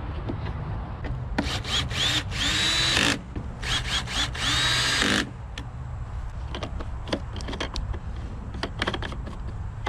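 Power drill with a socket driving in the last two bolts, in two runs of a second or two each, the motor spinning up in pitch as each one starts. Light clicks and knocks of tool handling follow.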